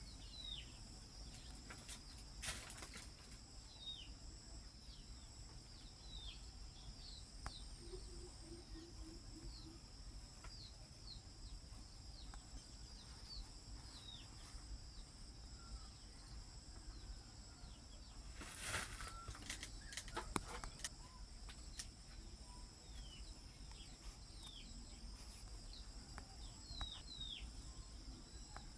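Outdoor nature ambience: a steady high insect drone with many short, falling bird chirps scattered through it, and two sharp knocks, about two and a half seconds in and near nineteen seconds.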